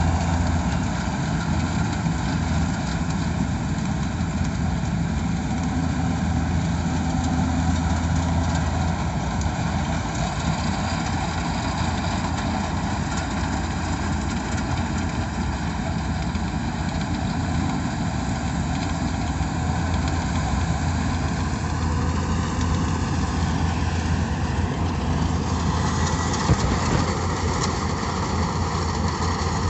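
Engine of a rice combine harvester running steadily, with a single brief knock near the end.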